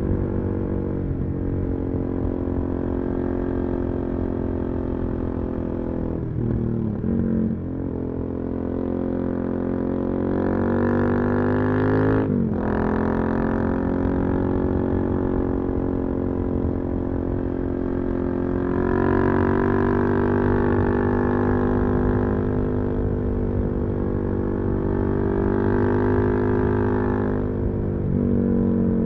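Suzuki DR-Z400SM single-cylinder four-stroke engine with a full Yoshimura exhaust under way, its note rising and falling with the throttle. It breaks off briefly and jumps in pitch as it changes gear around 7 seconds in, again about 12 seconds in, and near the end.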